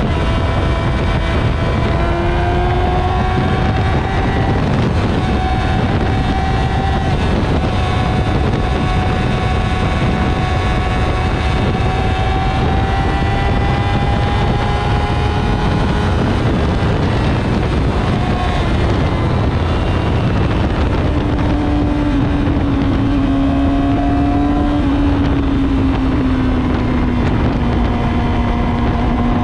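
Motorcycle engine running while riding, its pitch drifting slowly up and down with speed, under heavy wind noise on the microphone.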